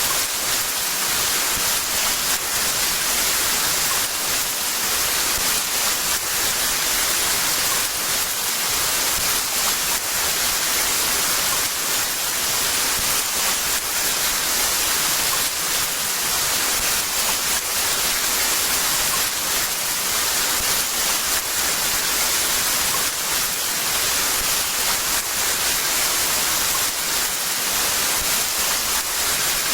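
Heavy rain falling in a steady, dense hiss, with no let-up and no distinct drops or thunder.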